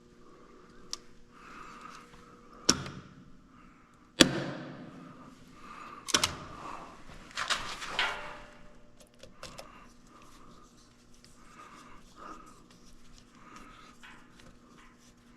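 A few sharp knocks and bangs, the loudest about four seconds in with a short ringing tail, then a cluster of clanks, over a faint steady hum.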